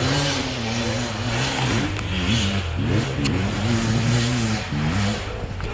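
Enduro motorcycle engine being ridden, revving up and down, its pitch rising and falling several times.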